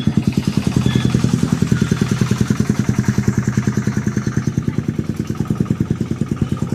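Vehicle engine idling with a steady, rapid chugging beat, about ten pulses a second.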